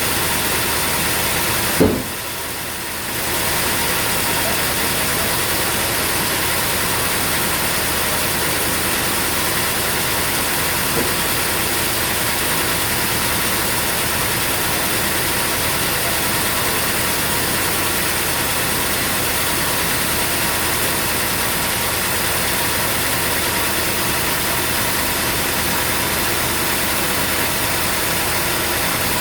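Sawmill machinery running steadily, an engine-driven hum with many steady tones. A single sharp knock comes about two seconds in, followed by a brief dip in level, and a faint click later.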